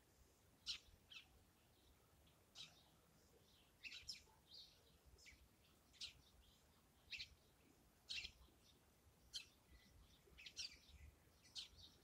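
Garden birds calling faintly: short, sharp chirps repeated about once a second.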